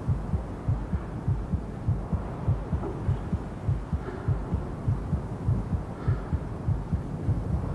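Low, quick, evenly spaced thumps like a pounding heartbeat, a tension sound effect laid under the edit.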